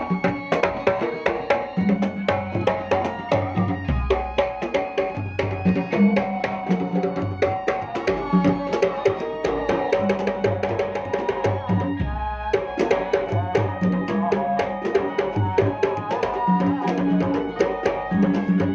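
Pencak silat accompaniment music: fast kendang hand-drum rhythm with sustained pitched tones over it, played through a sound system. The low drum notes drop out briefly about twelve seconds in.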